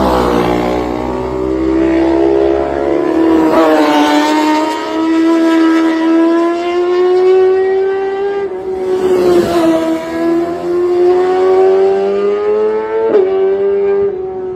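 Racing motorcycle engine running at high revs, a steady high engine note that drifts slightly up and down in pitch and is briefly broken about four times.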